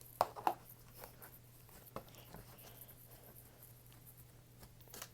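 Slime being handled: a few short sharp clicks and pops, the loudest about a quarter to half a second in, with smaller ones near the middle and end, over a faint steady low hum.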